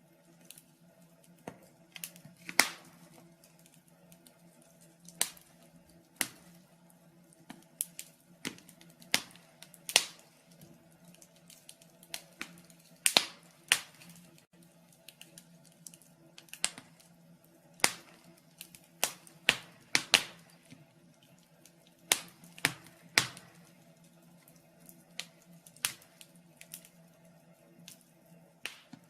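Wood fire in a fireplace crackling: irregular sharp pops and snaps, a handful of them much louder, over a faint steady low hum.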